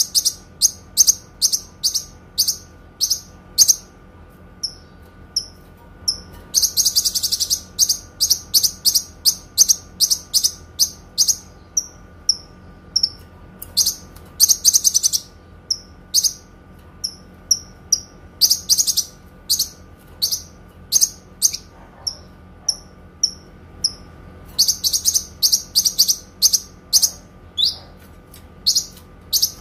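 Kinoi bird singing: high, sharp chirps, clear and loud, delivered in long fast runs of many notes, several times, with stretches of slower, spaced single notes between them.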